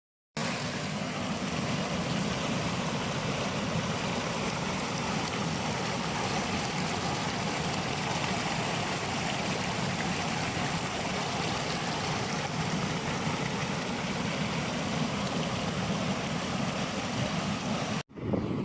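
Stream water rushing steadily, an even noise without distinct tones. It starts abruptly a moment in and cuts off sharply near the end.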